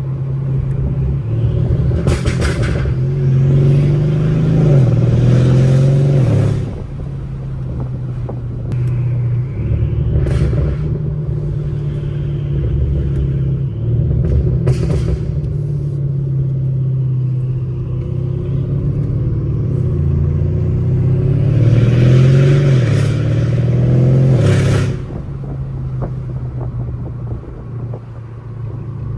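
Mercedes CLS550's twin-turbo V8 with aftermarket downpipes accelerating hard twice, the engine pitch climbing and then dropping off sharply each time, with raspy gear shifts. Between the two pulls it cruises steadily.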